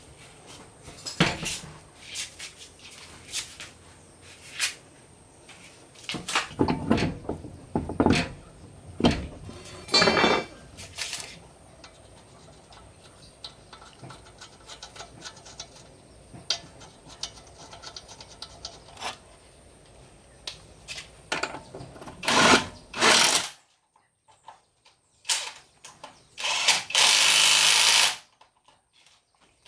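Workshop repair noise: metal tools clinking and knocking, a short rattling run about ten seconds in, and a power tool running for about a second and a half near the end.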